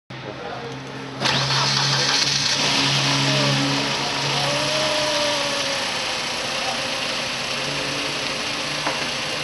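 Mercedes-Benz M111 1.8-litre four-cylinder petrol engine being started: it catches about a second in and runs at a fast idle, then eases down to a steadier idle after a few seconds.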